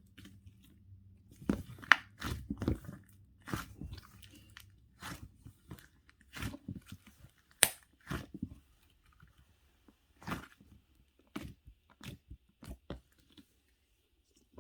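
Crunchy chewing and biting: a run of irregular crisp crunches, close together in the first few seconds and thinning out toward the end.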